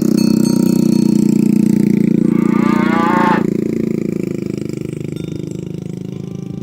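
An ox lows loudly in one long call that turns into a wavering, higher bellow and breaks off about three and a half seconds in. A steady low hum carries on underneath.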